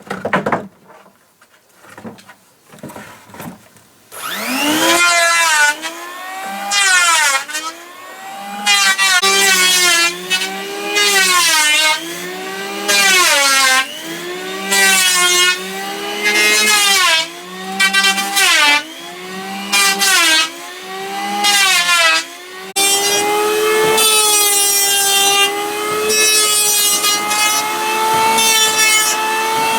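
A few light knocks, then an electric hand planer spins up about four seconds in and makes repeated passes along a log. Its motor whine sags under each cut with a hiss of shavings and recovers between passes. Near the end it runs at a steadier pitch.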